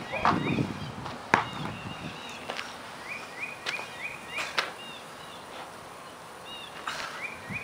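A songbird chirping in short runs of quick repeated notes, with a few sharp knocks in between, the loudest about a second in.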